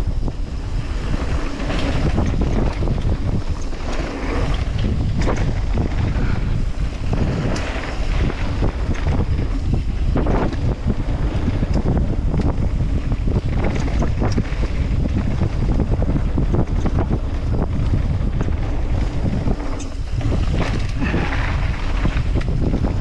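Wind rushing over an action camera's microphone during a fast mountain bike descent, with rumbling tyres on dirt and frequent sharp knocks and clatters from bumps and landings.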